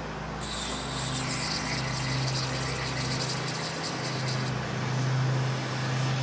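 Aerosol can of brake cleaner spraying: one long hiss starting about half a second in and stopping about four and a half seconds in, over a steady low hum.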